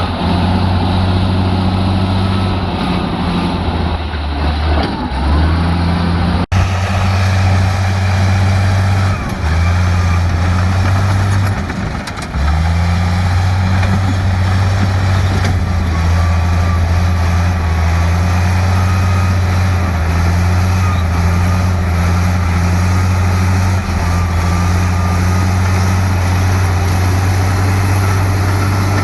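Heavy diesel engine of earthmoving machinery running steadily, with a few brief dips in level and a short dropout about six seconds in.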